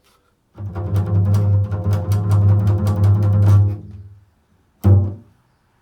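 A low-pitched instrument playing improvised music: one deep note held for about three seconds, then a short second note near the end.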